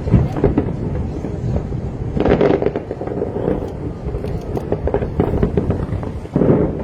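Fireworks going off: a dense crackle of many small bangs, with heavier bursts about two seconds in and again near the end.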